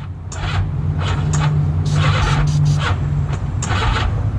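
Cheap old motorcycle engine running roughly just after starting, a steady low drone broken by uneven puffs and sputters; it sounds like the bike is in poor shape.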